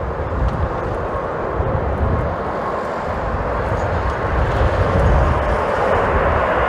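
Jet airliner's engines growing steadily louder as the plane approaches to land, with strong gusty wind buffeting the microphone in uneven low rumbles.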